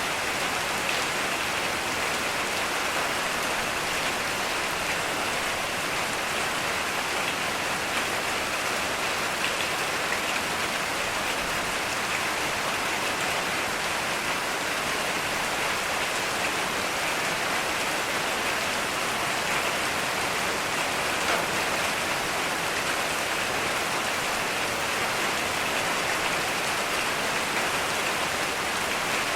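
Heavy rain falling steadily, a dense even hiss of drops on the ground and foliage with no thunder in this stretch.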